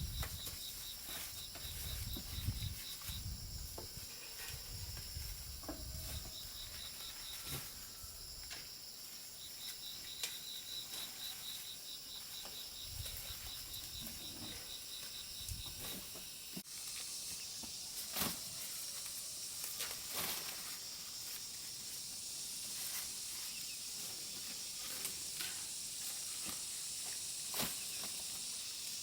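Outdoor rural ambience: a steady high hiss of insects, with a fast pulsing trill at times and scattered sharp clicks and rustles. A low rumble in the first several seconds fades out, and the high hiss gets louder after an abrupt change about two-thirds of the way in.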